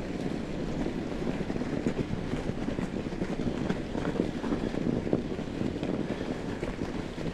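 Fat bike riding along a snowy trail: tyres rolling and crunching over snow with a steady rumble, and wind buffeting the microphone.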